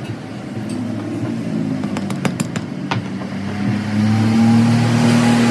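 A motor or engine running with a steady hum that grows louder about four seconds in, with a quick run of sharp clicks around two to three seconds.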